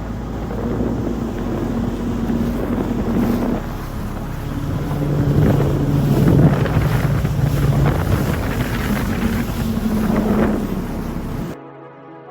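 Jet ski engine running on open water, its pitch shifting as it goes, with wind buffeting the microphone. The sound cuts off sharply near the end.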